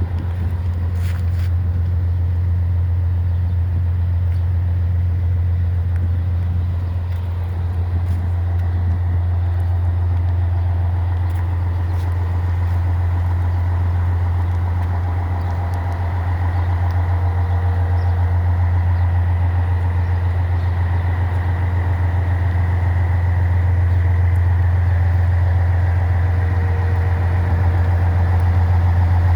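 Scania 111 truck's diesel engine running steadily with a deep, even hum, getting a little louder in the second half.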